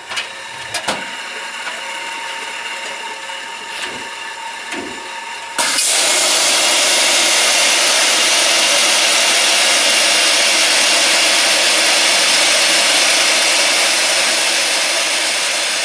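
A clothes dryer running with a steady hum and a few knocks, then about five and a half seconds in a Firetrace automatic CO2 fire-suppression system discharges into it: a sudden, loud, steady hiss of carbon dioxide gas rushing through the dryer cabinet, easing slightly near the end.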